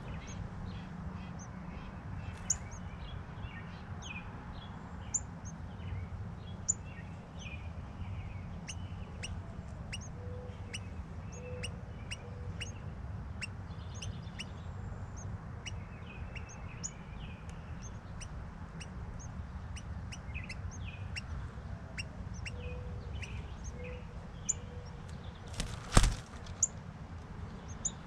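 Birds chirping: many short, high chirps scattered throughout, over a steady low rumble. One sharp knock comes about two seconds before the end.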